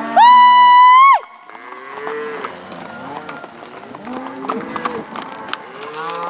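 Cattle herd bawling and mooing: one loud, long high-pitched bawl near the start, then many overlapping lower moos from the herd.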